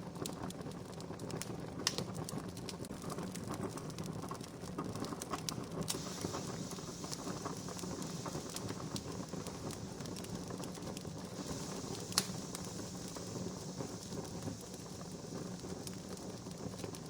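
Wood fire crackling steadily with small snaps, two sharper pops about two seconds in and near twelve seconds. A higher hiss joins about six seconds in.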